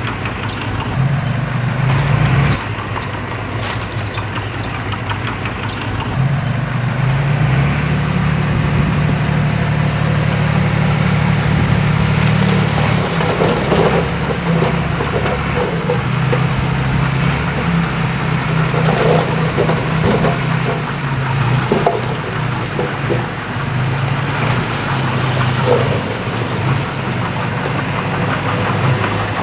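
Diesel engine of heavy earthmoving equipment running steadily, getting louder and working harder from about six seconds in.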